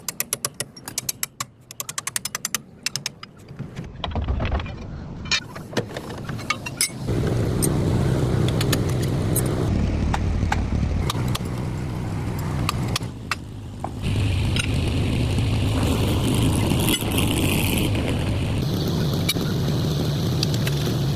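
Rapid metallic clicking for the first few seconds, then a vehicle engine running steadily, with a hiss joining in about two-thirds of the way through.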